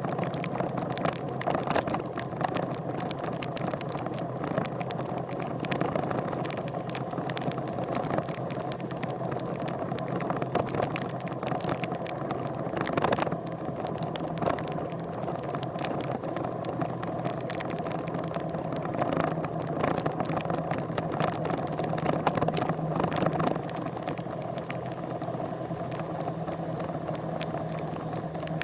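An engine running steadily, with rapid rattling clicks over it.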